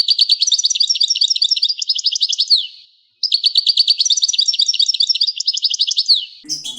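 Songbird song: a fast run of high twittering notes ending in a falling note, sung twice with a short pause between, the two phrases almost identical.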